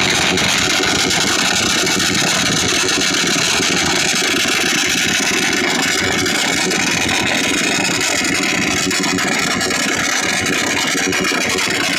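Motor scooter engines held at full throttle, running steadily at high revs.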